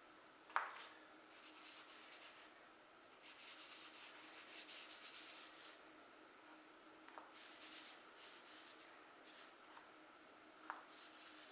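Faint scratching of charcoal rubbed across textured drawing paper in several strokes of a second or two each, with a couple of light taps.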